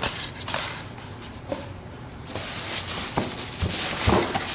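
Box packaging rustling and handled, with a few light knocks, as its contents are unpacked; the rustling grows louder a little past halfway.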